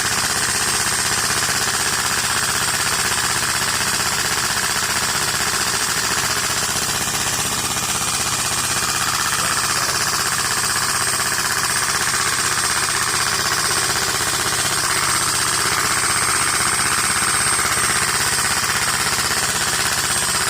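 Air-driven Lego V2 engine running fast, its pistons and valves making a loud, steady, rapid clatter. The engine is running soaked in oil, which the builders think is too much.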